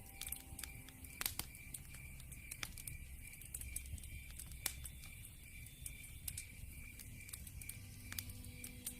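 Wood fire crackling, with irregular sharp pops over a soft low rumble, and a steady run of night-insect chirps, about three a second, such as crickets.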